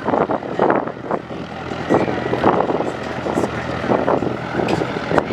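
Light propeller airplane's engine running at takeoff power, a steady drone.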